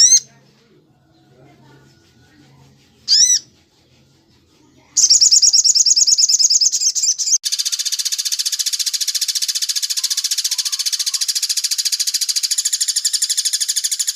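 Recorded songbird calls for bird training: two short, loud, high whistled notes about three seconds apart. About five seconds in, a rapid high trill starts, and it turns into a continuous fast chattering trill about two seconds later.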